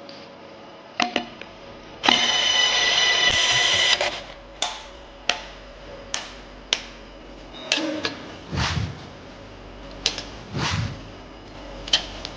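Workshop tool noise: a power tool runs for about two seconds, then sharp clicks and knocks come every half-second or so, with a few deeper thuds near the end.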